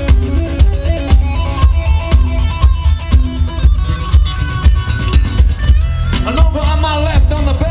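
Live rock band playing, with heavy bass guitar, a steady drum beat and electric guitar. A wavering lead line comes in about six seconds in.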